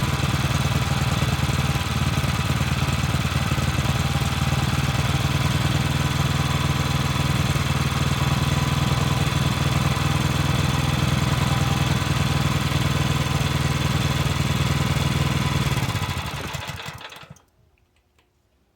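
17 hp Bright petrol engine running steadily, then winding down and stopping about sixteen seconds in.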